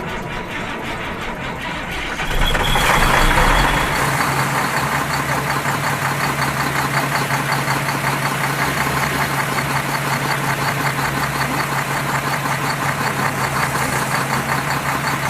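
A vehicle's engine running with a rapid, even clatter; it gets louder about two seconds in, then runs steadily.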